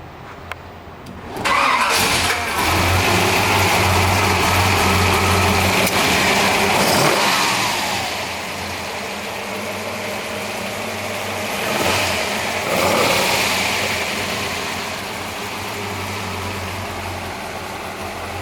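1955 Chevrolet Bel Air's 400 cubic-inch V8, fed by eight-stack fuel injection and breathing through Hooker headers and dual exhaust, being started. After a small click it catches about a second and a half in and runs at a loud fast idle, then drops to a lower idle. About two-thirds of the way through it is revved once and settles back to idle.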